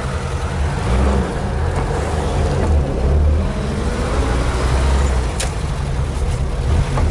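A GAZ-21 Volga's four-cylinder engine and running gear, heard from inside the cabin while the car is driven, as a steady low rumble with road noise. A single sharp click sounds about five seconds in.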